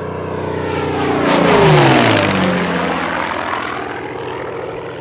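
Propeller-driven Yakovlev Yak-3 fighter flying past: the engine grows louder to a peak just under two seconds in, then drops in pitch and fades as it passes.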